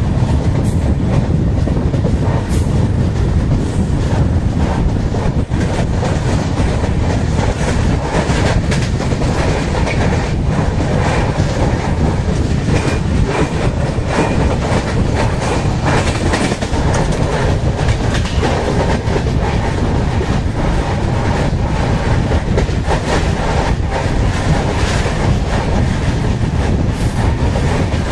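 Udyan Express passenger train running at speed, heard from its own coach: a steady rumble of wheels on the rails with a clickety-clack of rail joints and clicks throughout.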